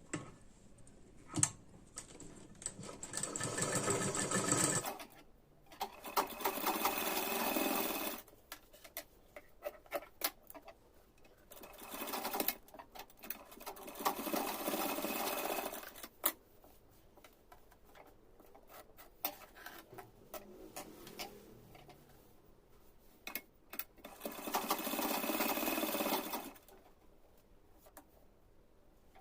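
Sewing machine stitching a seam in four separate runs of a few seconds each, with small clicks and fabric handling in the pauses between runs.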